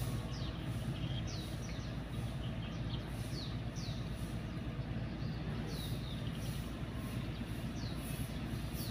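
A bird calling over and over with short, high chirps that fall in pitch, roughly once a second, over a steady low rumble.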